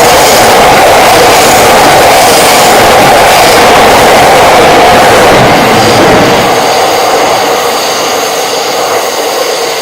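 E26-series coaches of the Cassiopeia sleeper train rolling past at close range, loud steady wheel-on-rail noise that begins to fade about six seconds in as the train moves away.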